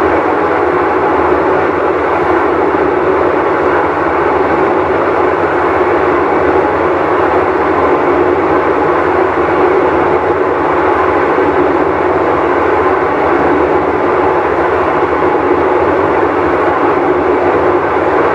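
Whirlpool Cabrio top-load washing machine running with a loud, steady noise that does not let up, the sound of its worn tub bearing.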